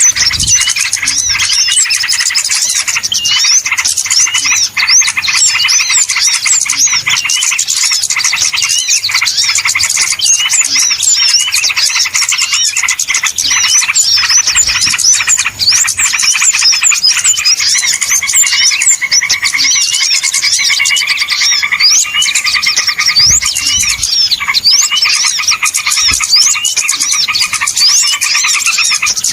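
A dense chorus of small birds chattering: rapid high chirps and twitters overlapping without pause, the kind of busy small-bird call used as a trapping lure. About two-thirds of the way through, a lower buzzy trill joins in.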